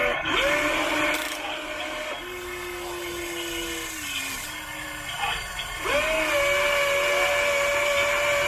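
Electric hydraulic pump motor of a model RC excavator whining. It spins up sharply and holds its pitch for about two seconds, runs at a lower pitch for about two seconds, then spins up again about six seconds in and holds.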